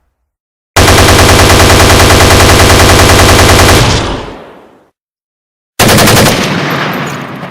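Automatic gunfire sound effect: a rapid sustained burst lasting about three seconds that fades out, then after a pause a second, shorter burst with a long fading tail near the end.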